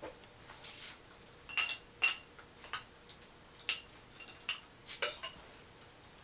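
Irregular light clinks and knocks of small hard objects being handled and set down, about ten in six seconds, a few with a brief metallic ring.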